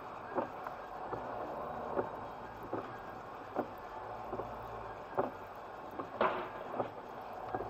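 Steady road noise inside a moving vehicle, with a short click about every three-quarters of a second.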